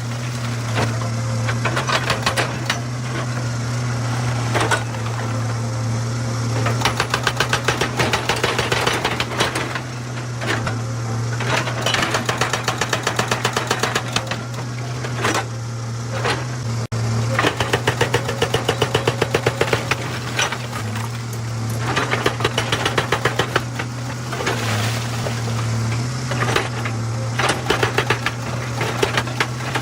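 Excavator diesel engine running steadily while a hydraulic rock breaker hammers stone in repeated bouts of rapid blows, each lasting a second or two.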